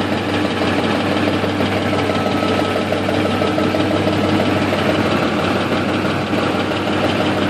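2004 Ford F-150's 5.4-litre three-valve V8 idling steadily with a rattle and knock. The owner is sure it is a loose passenger-side timing chain and thinks the cam phasers sound worn.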